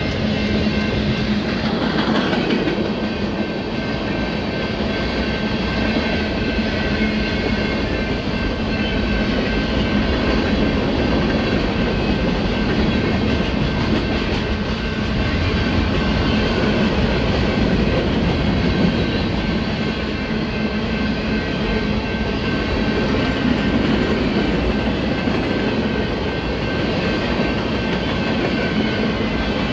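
Freight cars of a Union Pacific manifest train rolling past on a bridge: a steady, loud noise of steel wheels running on rail.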